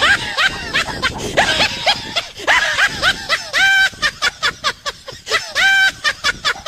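High-pitched laughter: giggling calls and a run of quick short 'ha' bursts, with the same laugh sounding twice.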